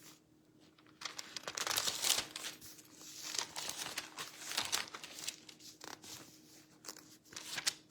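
Thin Bible pages rustling and being flipped, an irregular run of papery crinkles that starts about a second in.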